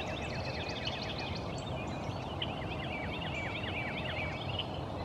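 Songbirds chirping in quick repeated series of short, high, downward-sweeping notes, over a steady low background rumble.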